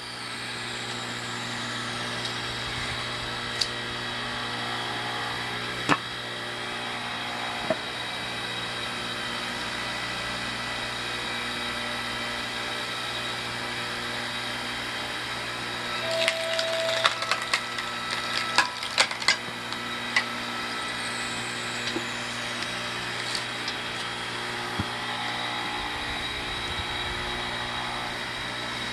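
Firewood splitting machine running with a steady hum, with a few sharp knocks and, a little past halfway, a burst of cracking and splintering as a log is split.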